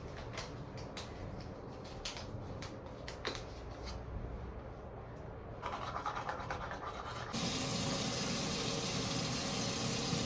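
Small clicks and rustling, then about seven seconds in a steady, louder rush of running water starts.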